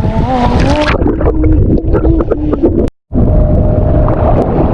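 Strong wind buffeting the microphone on open water, with a person's drawn-out, wavering voice over it. The sound cuts out for a moment about three seconds in.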